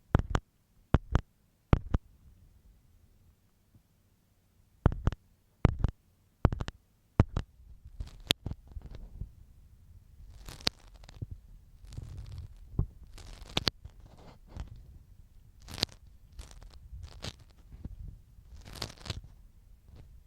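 Ear pick working against a microphone's ear, heard close up. Sharp separate taps over the first seven seconds give way to denser scratching and rubbing strokes with a soft low rumble under them.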